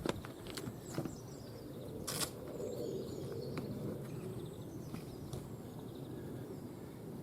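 Scattered clicks and one short rustle from handling kayak parts, over a steady low rumble that swells for a few seconds in the middle.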